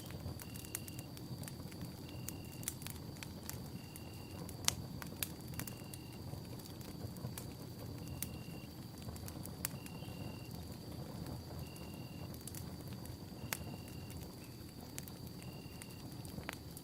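Campfire burning, with scattered sharp crackles and pops over a low steady rumble of flames. A short high pip repeats about every second and a half to two seconds, over a steady high tone.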